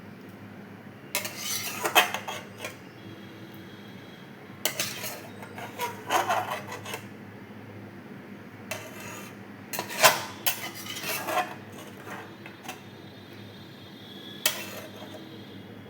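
A spoon scraping and knocking against a cooking pan in several short bouts with pauses between, as the cooked chicken curry is stirred or spooned out.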